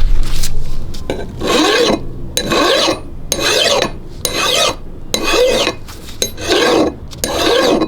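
Metal being hand-filed on an antique monkey wrench: about seven even rasping strokes, roughly one a second.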